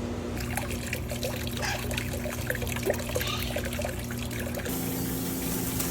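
Water trickling and splashing in a small bird fountain, with a steady low hum underneath. Near the end a fine hiss of spray from a mister comes on.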